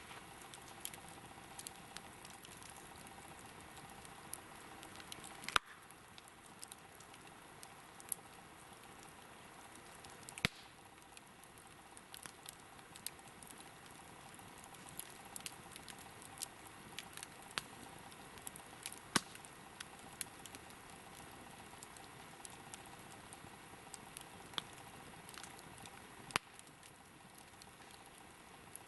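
Wood campfire burning with a faint steady hiss and irregular crackling pops, four or five of them sharper and louder than the rest.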